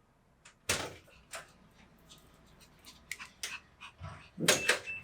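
A dog making a few short, separate sounds, with the loudest cluster about four seconds in.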